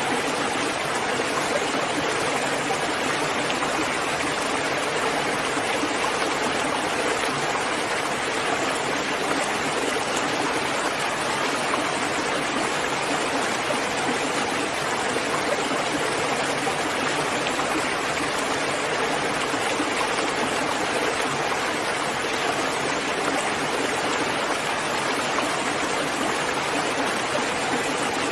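Steady heavy rain, an even continuous hiss and patter with no distinct drops or breaks.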